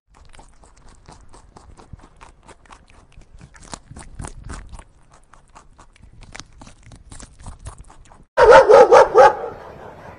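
A dog barking, a quick run of about five barks near the end. Before the barks there is a long stretch of faint, quick clicking.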